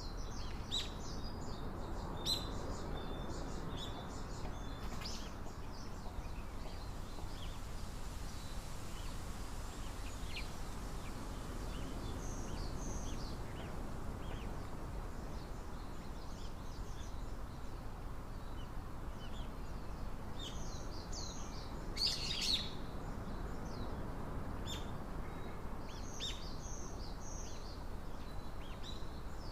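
Small wild birds chirping with short, high calls scattered throughout, over a steady low background noise. A louder flurry of calls comes about three-quarters of the way through.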